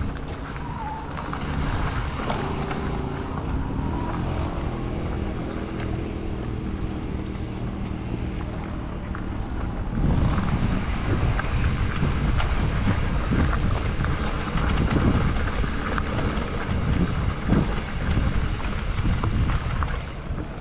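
Wind buffeting the microphone and the rumble of an e-bike rolling over a rough ranch track, with a few faint steady tones in the first half. About halfway through it turns louder and rougher, with many small knocks and jolts.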